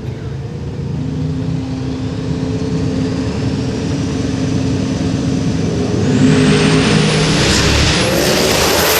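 Twin-turbo Chevy S10 drag truck engine running, a high turbo whine rising steadily over several seconds. In the last few seconds the engine sound grows much louder into a full-throttle rush.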